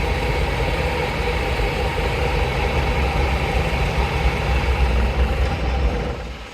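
Vintage truck engine running close by with a steady, heavy low rumble, which drops away abruptly just before the end.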